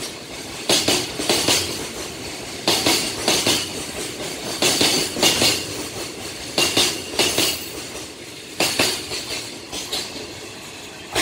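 Freight train container wagons rolling past. Their wheels knock over the rail joints in groups of two or three about every two seconds, with a high metallic ring, over a steady rolling rumble. The last wagon goes by near the end.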